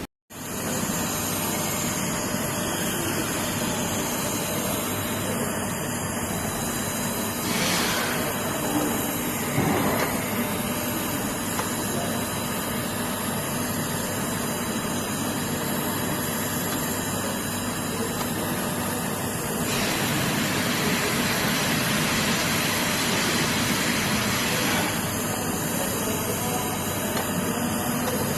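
TIG welding arc: a steady hiss with a faint hum under it. It grows harsher and louder briefly twice early on, then again for several seconds past the middle.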